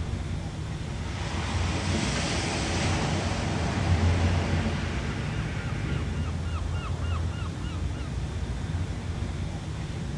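Ocean surf: steady wave wash with a low rumble, swelling as a wave breaks and washes in about two to four seconds in. A quick run of about eight short, high chirps comes in the middle.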